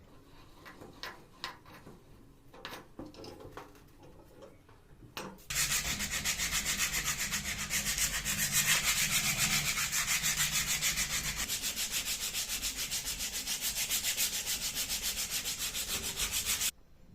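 Abrasive sanding of rusty metal on an old hydraulic jack during rust removal. It is a loud, steady rasping with a fast, even pulse that starts about five and a half seconds in and stops abruptly near the end. Before it come a few light clicks and taps.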